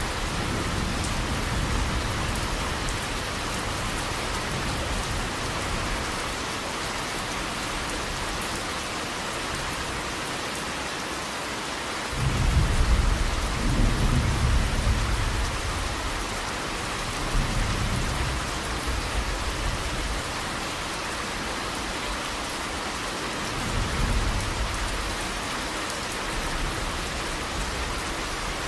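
Steady heavy rain with rolls of thunder: a long deep rumble starts about twelve seconds in, with smaller rumbles later.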